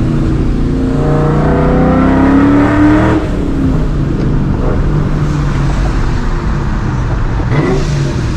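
Straight-piped, Vortech-supercharged 2004 Mustang GT's 4.6-litre two-valve V8 accelerating, its note rising for about two seconds and then dropping back to steady running at lower revs; near the end the note briefly rises again. The exhaust echoes off nearby walls.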